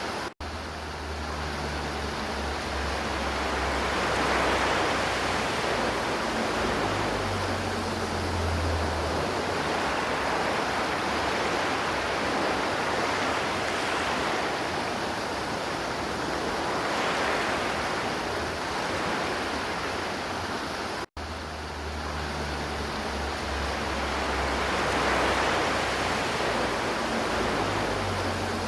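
River water flowing and rushing steadily, in a continuous even wash of noise. It cuts out for an instant twice, once right at the start and once about 21 seconds in.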